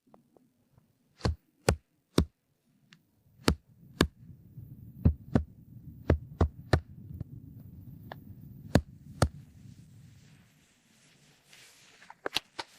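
Sharp knocks and clicks of wooden pieces and cord being handled while a wood frame is lashed together, about a dozen in irregular succession over a low rumbling hum in the middle of the stretch.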